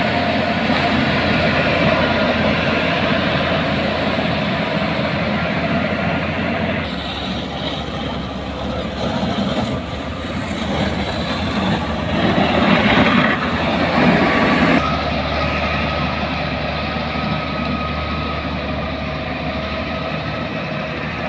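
Engines of heavy road-construction machinery running steadily with machinery noise, the sound changing abruptly twice, about a third and two thirds of the way through.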